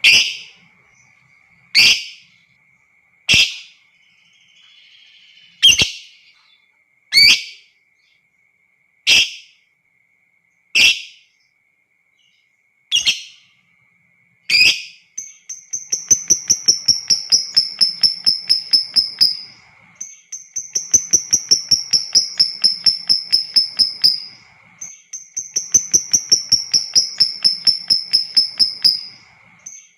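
Lovebird calling: about nine single sharp shrieks spaced a second and a half to two seconds apart, then from about halfway three long runs of fast chattering notes of about four seconds each, the drawn-out 'ngekek' trill, with a fourth run starting at the end.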